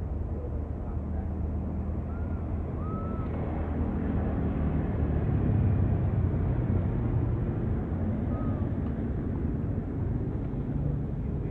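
Low engine rumble of a passing motor vehicle, swelling about halfway through and then easing off, with a few short high chirps over it.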